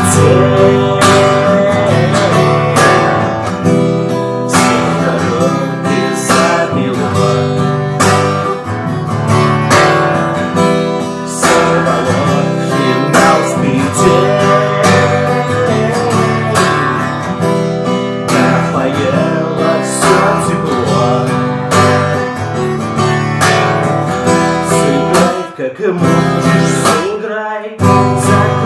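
Acoustic guitar strummed steadily through an instrumental passage of a song, with a melody line wavering above the chords and two brief breaks in the strumming near the end.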